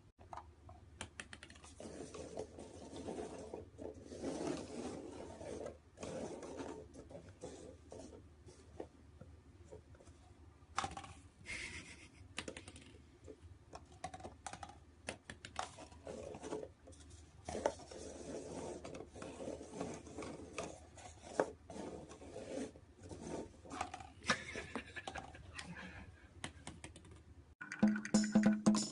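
Irregular rapid clicking and scratching, close by. Music with a percussive beat starts near the end.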